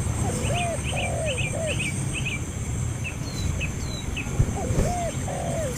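Birds calling: a run of short, low, arched notes repeated several times in two bouts, with quicker high chirps over them, against a steady high-pitched hum and a low rumble.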